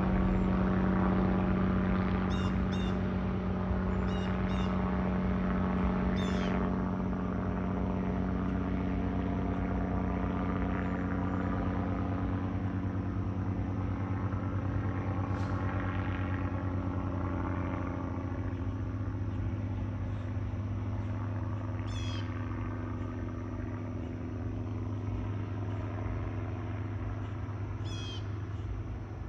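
Aircraft flying past with a low, steady engine drone that slowly fades away. A bird chirps briefly several times over it.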